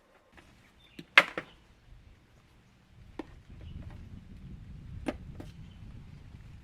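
Several sharp knocks and clicks, the loudest about a second in, with a low, even rumble setting in about halfway through.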